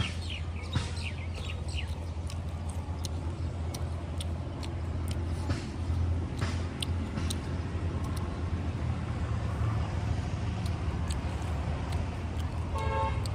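A person chewing and eating by hand, with scattered wet mouth clicks and smacks, over a steady low hum. Near the end comes a brief pitched sound with several overtones.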